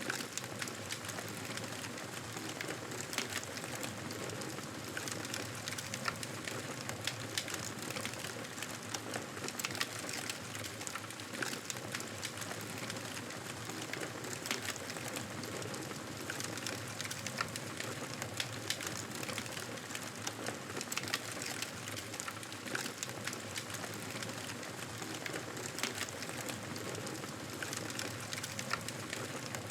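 Wood fire crackling in a fireplace: a steady hiss with many small, irregular pops.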